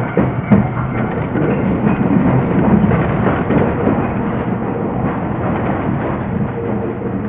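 Rumbling running noise of an Iyotetsu Gunchu Line electric train moving along the track, heard from inside the driver's cab. A couple of sharp clicks in the first second are the wheels passing over rail joints.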